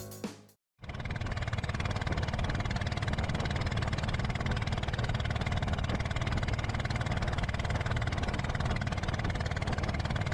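A short burst of electronic music with drum hits stops sharply. After a half-second gap, a steady low rumbling noise begins about a second in and holds at an even level.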